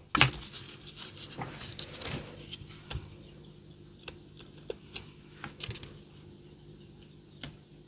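Scattered light clicks and taps of craft supplies being handled on a desk, acrylic paints being picked up and set down, over a faint steady hum.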